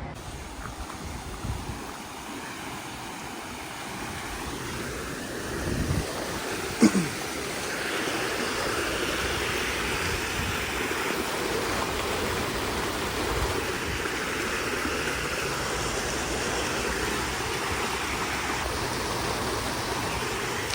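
Steady rush of running water, growing louder about eight seconds in, with a short sharp knock near seven seconds.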